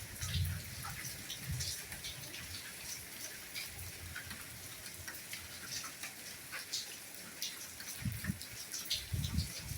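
Steady light rainfall with individual raindrops ticking on a surface. Occasional low thuds sound near the start and again near the end.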